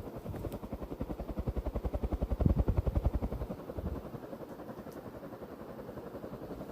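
Three-bladed metal ceiling fan spinning on high, its blades beating the air in a rapid, even pulse that sounds like a helicopter. The pulsing swells to its loudest around the middle, then settles a little.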